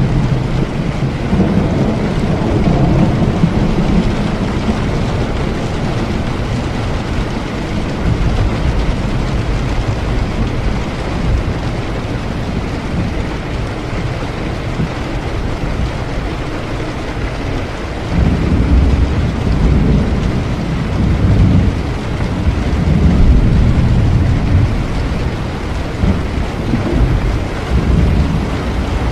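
Steady heavy rain with low rolling thunder. The thunder rumbles in the first few seconds, then again in long swells from a little past halfway to near the end.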